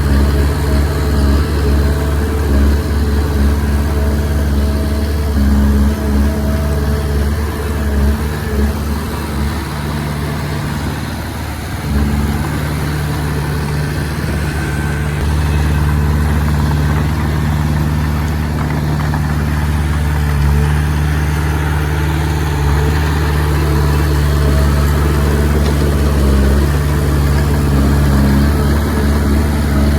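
Komatsu D20P bulldozer's diesel engine running steadily while working. It eases off for a few seconds about a third of the way in, then picks up again.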